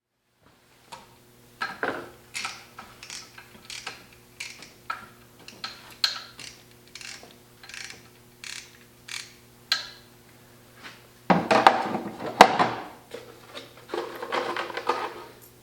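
Hand ratchet wrench clicking in a string of short strokes, about two a second, during engine rebuild work. Two louder, rougher stretches of noise follow near the end, over a steady low hum.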